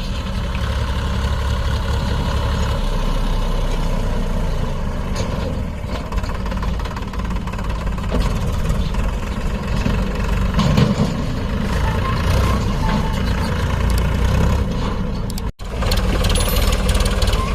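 Heavy diesel engines of a JCB 3DX backhoe loader and a New Holland tractor running steadily under load as the loader tows the loaded tractor and cane trolley, with a split-second break near the end.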